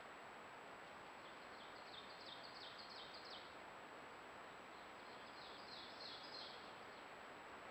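A songbird singing twice, each song a quick series of repeated notes lasting about two seconds, over the steady hiss of a trail camera's microphone with a faint high whine.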